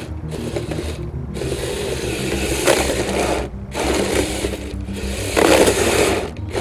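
Electric motors and gearboxes of a Kyosho Blizzard RC snow cat whirring as it drives on its tracks, with surges of scraping as the tracks and plow grind over snow and ice, twice louder for a moment.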